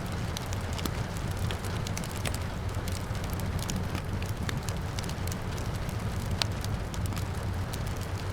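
Wood fire crackling, with frequent irregular sharp pops over a steady low rumble, and rain falling steadily in the background.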